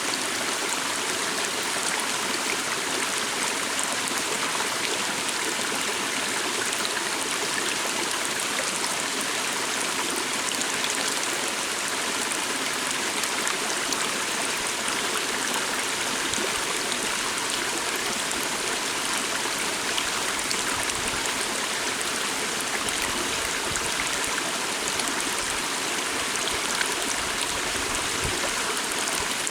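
A small stream flowing steadily over stones, a constant rushing and trickling with little splashes scattered through it.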